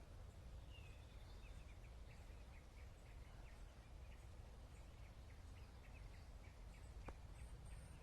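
Faint bird calling: a long run of short high chirps, about three a second, over a low background rumble.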